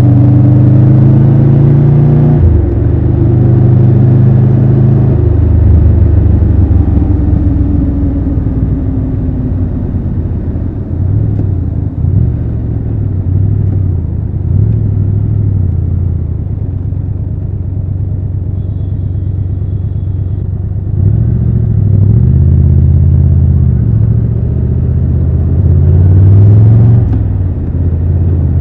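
Triumph Tiger 1200 Rally Pro's inline three-cylinder engine on the move. It accelerates through a gear change about two seconds in, then eases off and runs at lower revs through the middle. Near the end it picks up again, revving through several upshifts.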